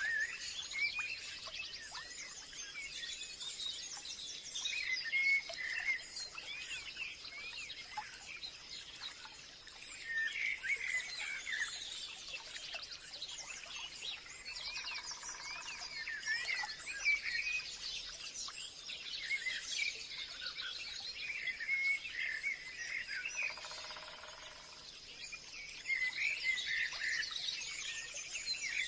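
Forest birdsong: many birds chirping and twittering at once in overlapping bursts every few seconds, over a steady thin high tone. Twice a short, lower call stands out, about halfway and a few seconds before the end.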